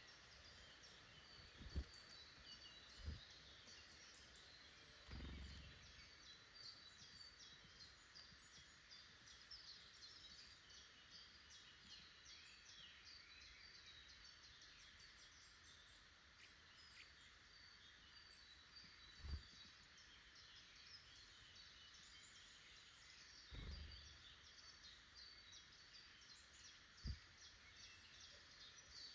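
Faint outdoor chorus of small woodland songbirds: many quick, high chirps and trills over a soft hiss. About six dull low thumps at irregular moments stand out as the loudest sounds.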